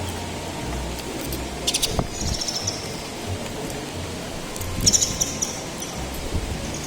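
Birds chirping in two short bursts of rapid high chirps, about two seconds in and again about five seconds in, over a steady low hum with a few light clicks.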